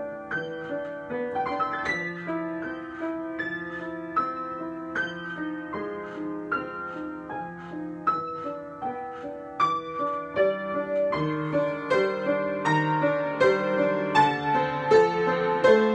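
Solo piano being improvised: a flowing run of chords and melody notes, which grows louder and busier about two-thirds of the way through.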